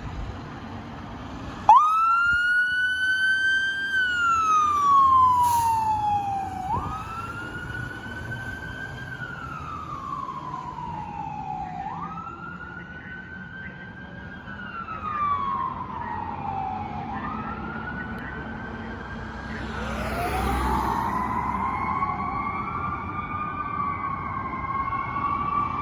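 Emergency vehicle siren sounding in wail mode, each cycle a quick rise then a slow fall, repeating about every five seconds. A second siren joins about two-thirds of the way through and overlaps the first.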